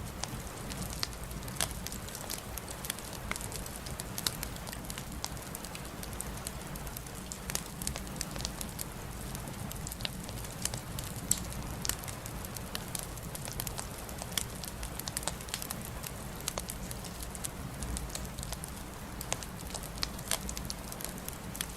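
Wood fire crackling in a fireplace: frequent irregular pops and snaps over a steady low rumble, with one louder pop about eleven seconds in.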